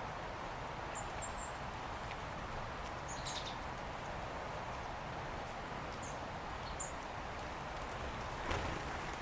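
Small birds giving brief, high chirps every second or two over a steady background hiss of outdoor noise, with one short knock near the end.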